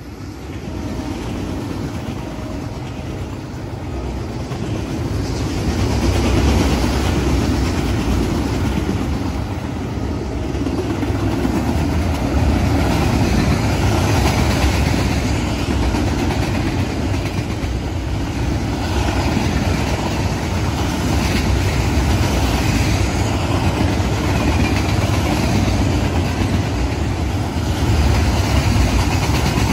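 Freight train of loaded flatcars rolling past close by: a steady rumble of wheels on rail that builds over the first few seconds and then holds.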